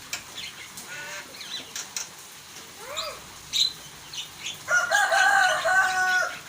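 Starling (jalak) calling: a run of short chirps and arched whistles, then a loud, long call of held notes about three quarters of the way in.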